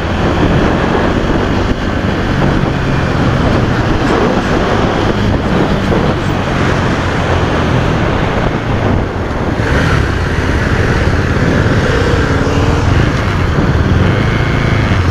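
KTM 390 Duke's single-cylinder engine running on the move in traffic, its pitch shifting with the throttle, under a steady rush of wind noise.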